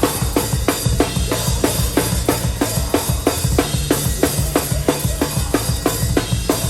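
Live hardcore band playing, heard close up from the drum kit: kick and snare hits in a steady fast beat, with heavy sustained bass and guitar underneath.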